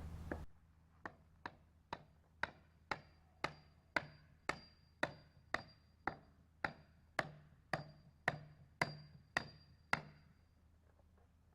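Steady hammer blows pounding something in, about eighteen strikes at roughly two a second, each with a short ringing note. The blows stop about ten seconds in.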